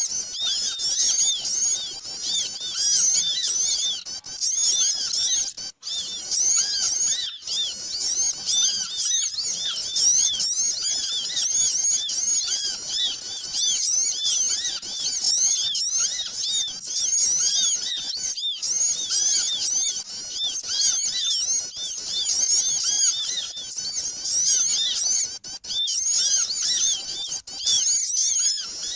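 Dense, noisy chorus of many small birds chirping over one another without pause, high-pitched and busy: a bird-lure recording (suara pikat) for calling small birds.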